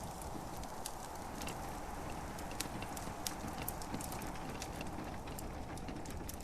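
Wood fire crackling in a fireplace, with scattered sharp pops at irregular intervals over a steady hiss of gentle rain.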